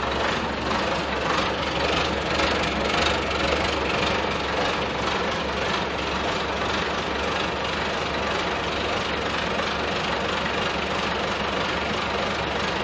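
Scania 143 truck's V8 diesel engine idling steadily.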